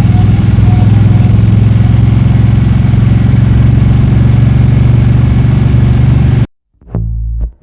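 Motorcycle engine running steadily, loud and low-pitched, cut off abruptly near the end, where bass-guitar music starts.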